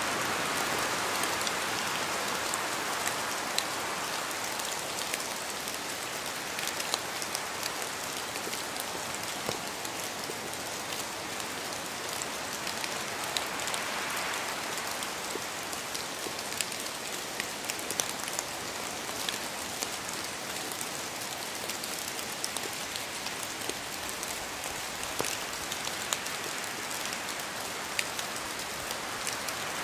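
Steady rain falling on a surface: an even hiss with many individual drops ticking sharply here and there.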